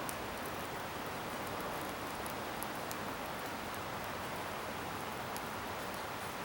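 Wood bonfire burning: a steady hiss of flame with scattered sharp crackles and pops from the burning scrap wood.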